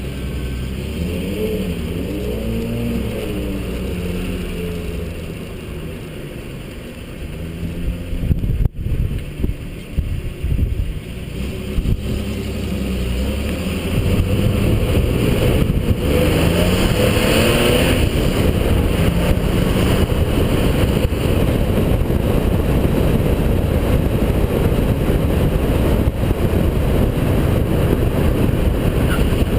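Holden VP Commodore's 3.8-litre V6 driven hard, its revs climbing and falling through gear changes, with a sudden break in the sound about eight or nine seconds in. From about fourteen seconds on it runs louder and steady at high load.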